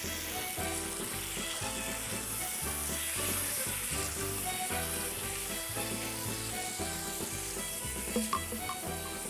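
Spicy webfoot octopus and pork belly stir-frying over high heat in a pan, sizzling steadily as a wooden spatula turns it. Background music with a steady beat plays over it.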